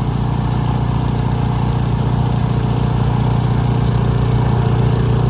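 Benchmark 30-inch tracked snowblower's 420cc engine running steadily at working speed.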